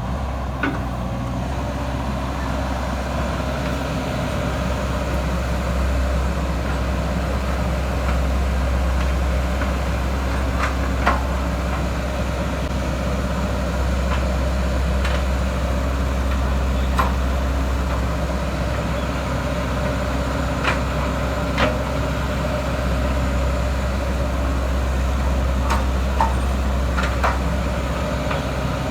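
Four-cylinder Isuzu 4HK1 diesel engine of a JS220 excavator running steadily at idle, with a few light clicks scattered through it. The engine is running after its no-start fault was cured by a new cam sensor and engine wiring harness.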